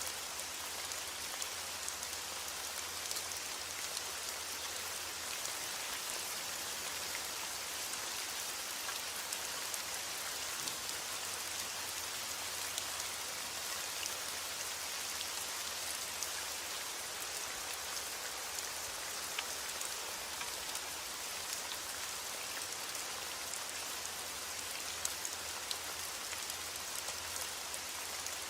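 Steady heavy rain: an even hiss with scattered sharper ticks of individual drops.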